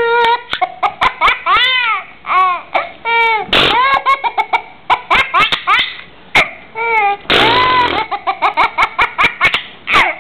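A 9-month-old baby laughing hard in repeated high-pitched peals and squeals, between short mouth noises: sharp pops and two longer sputtering blows.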